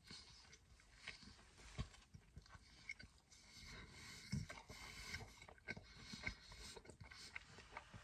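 Faint chewing of a mouthful of sub sandwich, with scattered soft mouth clicks and smacks.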